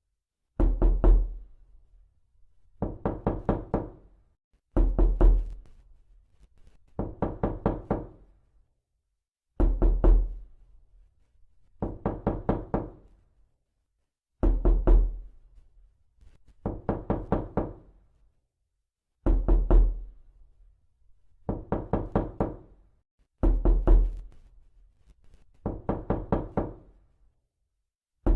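Knocking on a door in repeated quick runs of about four to six raps, a new run roughly every two seconds. Some runs land heavier than others.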